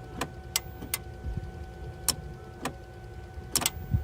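Sharp, irregular clicks and knocks, about eight in four seconds, as the ignition is switched on in a no-crank 2014 Ford Escape, over a faint steady high hum. No starter motor is heard.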